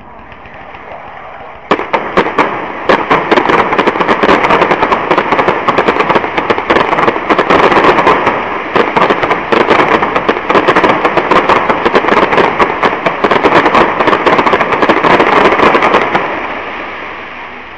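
Fireworks going off in a dense, rapid barrage of bangs and crackles. It starts abruptly about two seconds in, keeps up without a break, and stops shortly before the end, leaving a fading rumble.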